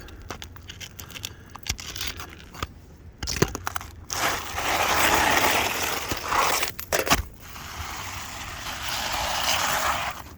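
Scattered small clicks and taps, then two long gritty scraping stretches of about three seconds each: a brittle asphalt shingle being worked free and dragged out from under the course above.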